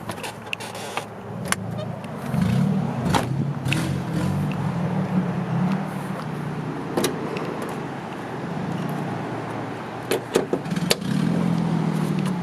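A vehicle engine running steadily at low revs, with several sharp clicks and clunks scattered over it, which fit the hood being released, lifted and propped open.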